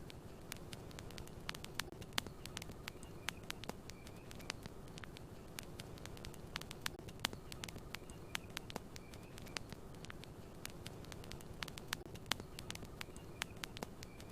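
Campfire crackling: irregular sharp pops and snaps of burning wood over a steady low rumble of flame, with a few faint high chirps now and then.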